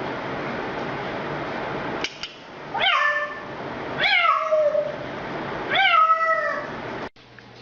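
A cat meowing three times, each meow dropping in pitch, after a couple of seconds of steady background hiss.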